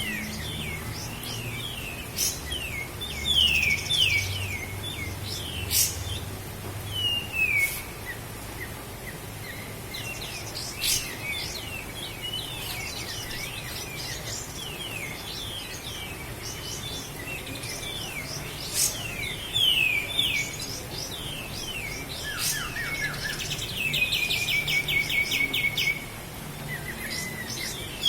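A kapas tembak songbird singing: a long run of short, quickly falling chirps, with a rapid, even trill a little before the end.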